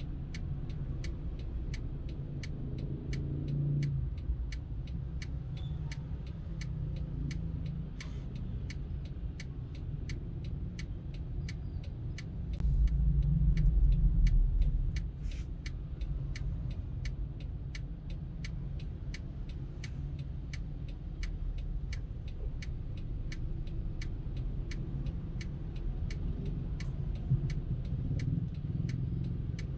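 Low engine and road rumble heard from inside a car, with an indicator ticking steadily at about one and a half ticks a second. The rumble swells for a couple of seconds near the middle.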